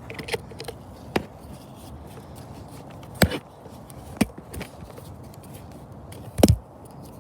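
Scattered handling knocks and clicks, about five in all with the loudest near the end, as a handheld anemometer is handled and screwed onto a tripod.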